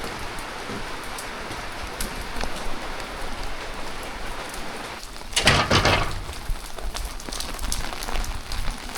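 Steady rain falling, with scattered drops ticking. About five seconds in, a louder rushing noise lasts under a second.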